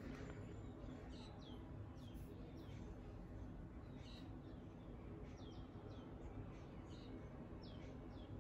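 Faint bird chirping: a long series of short chirps, each falling quickly in pitch, repeating irregularly, over a low steady room hum.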